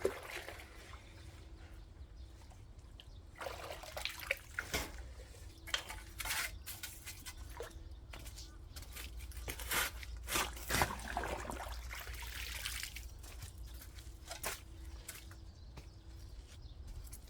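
Water poured onto loose soil and trickling into the gaps to settle it, coming in uneven spells with scattered clicks and knocks.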